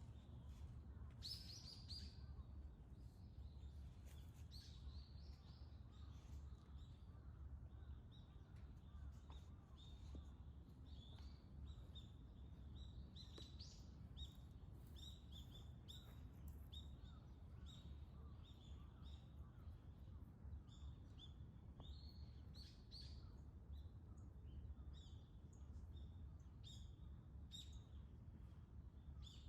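Faint, short, high chirps from small birds, repeated many times throughout, over a steady low rumble of distant background noise.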